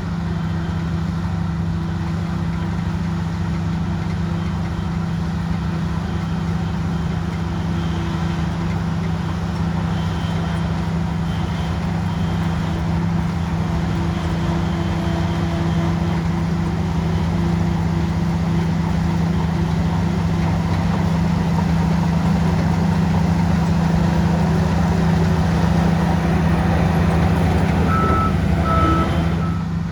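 Heavy diesel engine of a Shantui bulldozer running steadily, slowly getting louder. A reversing alarm beeps near the end.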